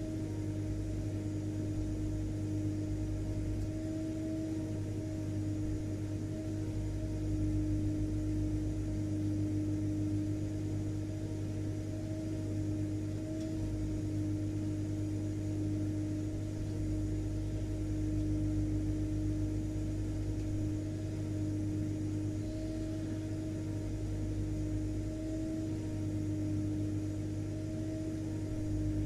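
Vacuum cleaner motor running steadily, a constant hum with a whirring rush of air.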